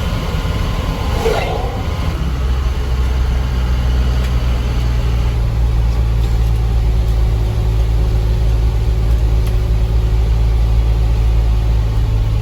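Truck's diesel engine running steadily with a low hum that grows fuller about two seconds in, with a brief higher sound about a second in.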